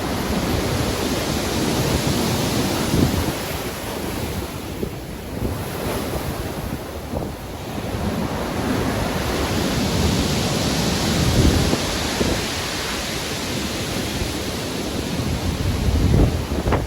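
Ocean waves breaking and washing in a storm, a continuous rushing surf that swells and eases over several seconds, with wind buffeting the microphone as a low rumble.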